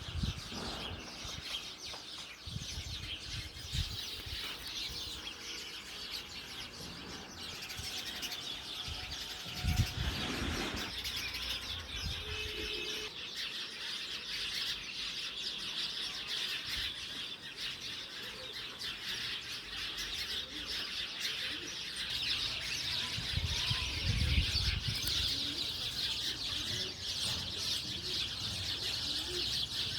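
Many birds chirping continuously, with a few low thumps, the loudest about ten seconds in.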